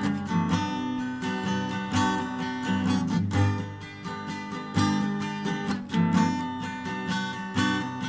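Acoustic guitar strumming chords in an instrumental passage between a song's lines, with no voice.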